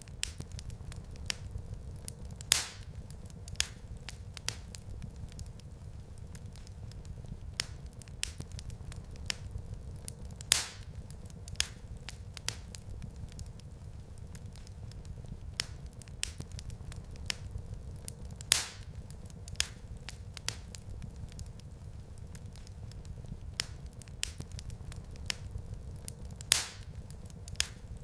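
Wood fire crackling in a fireplace: scattered sharp pops and snaps over a steady low rumble, with a louder pop about every eight seconds.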